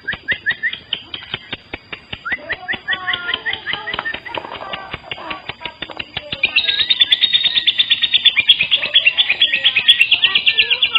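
Lovebird chattering song: rapid clicking chirps, then from about six and a half seconds a louder, fast, high-pitched continuous chatter. It is the kind of lure song played to set other lovebirds singing.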